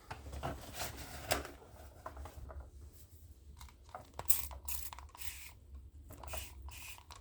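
Close handling noise: rustling and crisp scratchy bursts as a doll's damp synthetic hair is wound onto hair rollers, with a few sharper ones about four to five seconds in.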